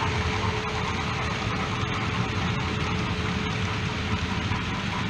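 OO gauge model train running on the layout: a steady rumble of wheels and motor on the track, with faint irregular clicks.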